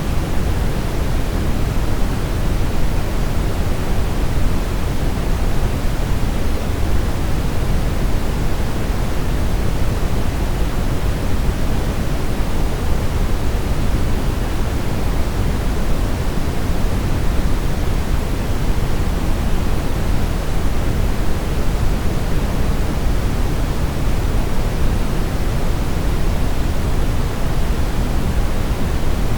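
Steady brown noise: a constant, even rumbling hiss, strongest in the low end and fading toward the highs, with no change or break.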